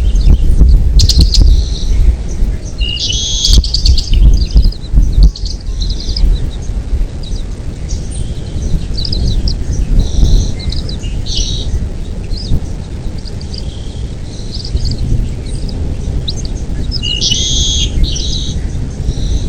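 Bald eagles giving high, thin chirping calls in scattered bursts, the busiest near the start and near the end, over a loud, steady low rumble.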